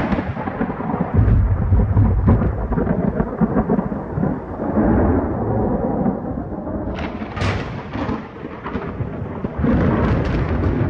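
Sound effect of a deep, rolling rumble with crackling, starting suddenly, with sharp cracks about seven seconds in and again near the end.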